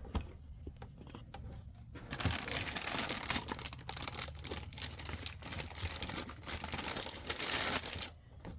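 Packaging being opened and crinkled by hand as a new replacement accelerator pedal is unwrapped. There is a steady run of rustling and crackling from about two seconds in, which stops shortly before the end.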